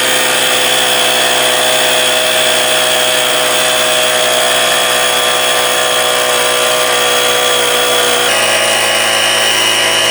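Battery-powered portable air compressor running steadily while inflating a bicycle tyre. Its pitch steps down slightly about eight seconds in.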